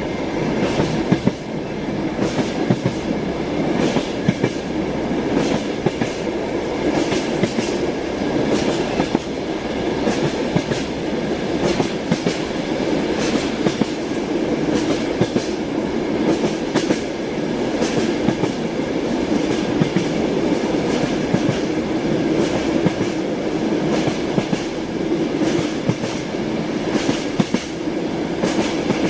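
Moving passenger train heard from inside a carriage: a steady rumble with repeated clicks of the wheels over rail joints.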